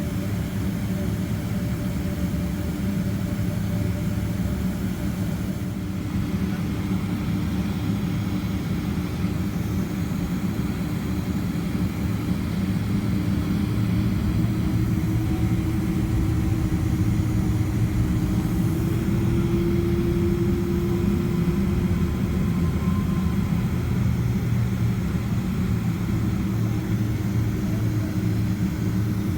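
Boeing 767-300ER's jet engines running steadily at low power, heard as a low rumble from inside the cabin, with a faint tone that rises slightly partway through and then settles back.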